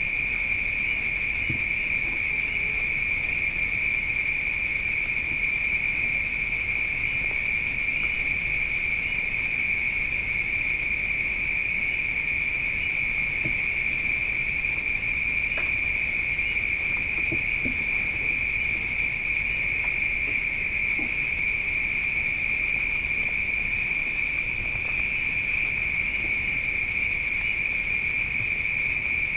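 Chorus of night insects trilling without a break, at two steady high pitches, one with a fast fine pulse.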